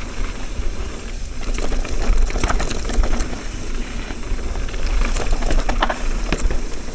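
Mountain bike riding fast down a rough, choppy trail: tyres rattling over dirt and rocks with scattered clicks and knocks from the bike, over a steady low rumble of wind on the microphone.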